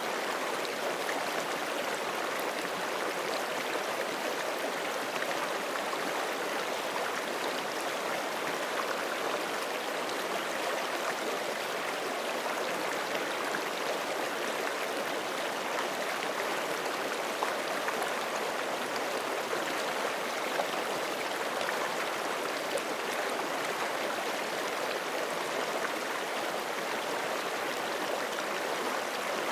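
Forest creek running over rocks: a steady rush of flowing water with small splashes and gurgles.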